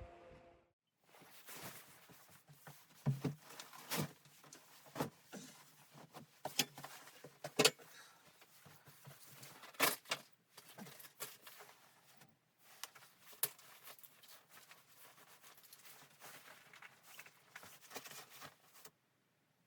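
Irregular clicks and knocks over a faint rustle, like objects being handled at close range, with the loudest knocks around a third of the way in and about halfway.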